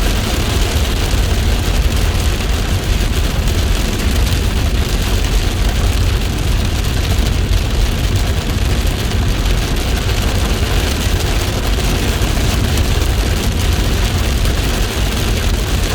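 Heavy rain pouring steadily, a dense hiss of countless drops with a strong low rumble underneath.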